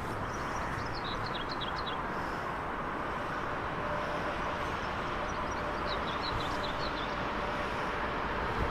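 A train running on the line, a steady rushing noise that grows slightly louder as it comes nearer. Small birds chirp briefly twice.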